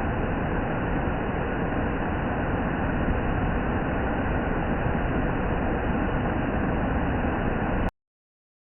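Waterfall rushing in a steady, even roar of falling water, which cuts off suddenly near the end.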